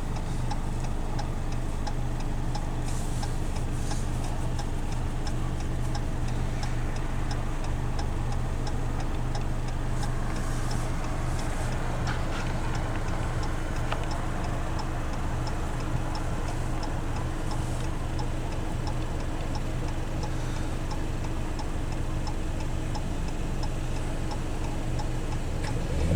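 Car's turn-signal indicator clicking steadily, about two clicks a second, over the steady hum of the engine and road.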